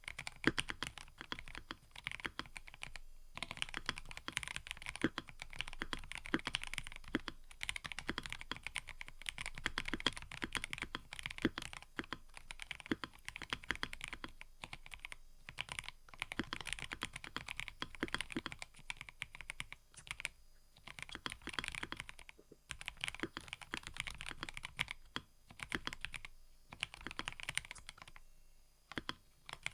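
Fast typing on a mechanical keyboard, a dense clatter of key clicks in runs broken by brief pauses every few seconds.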